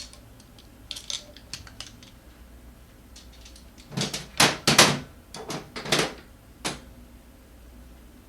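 A run of sharp clicks and clattering knocks of hard objects being handled, a few light ones early on and a cluster of loud knocks about four to five seconds in, with a last knock near seven seconds.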